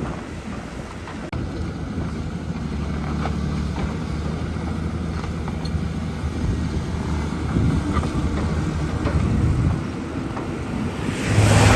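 Caterpillar 320 excavator's diesel engine running steadily with a low hum, growing louder near the end.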